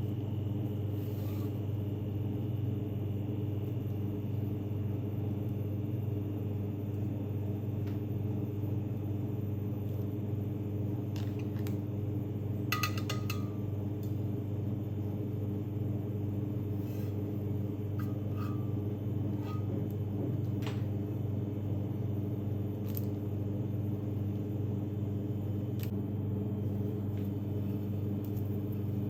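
A steady low mechanical hum, with a few light clicks and clinks about halfway through.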